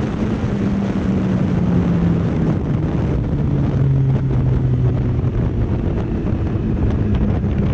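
Motorcycle engine running on the move, with wind on the microphone; its pitch falls a couple of seconds in and climbs again near the end.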